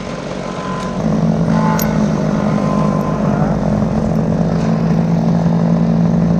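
An engine running steadily under load, picking up in level about a second in, with a few faint high clicks.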